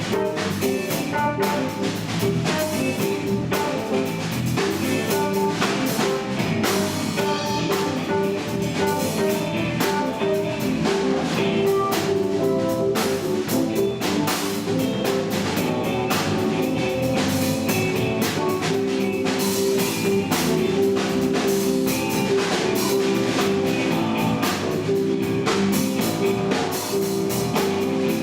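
Band music: a drum kit keeping a steady beat under held guitar notes.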